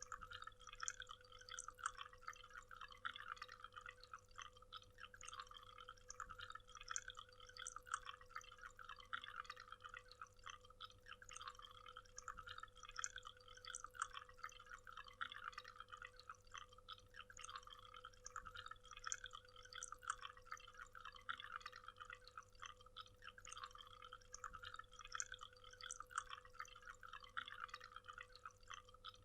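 Waterfall splashing and trickling, faint: a dense, uneven patter of falling water that keeps on without a break.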